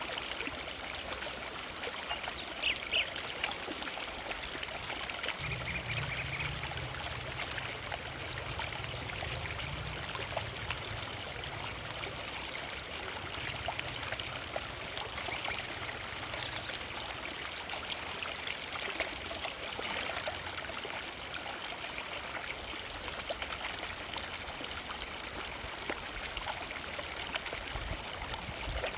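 Forest river flowing steadily over rocks, with many small splashes and trickles and a low rumble for a while near the start.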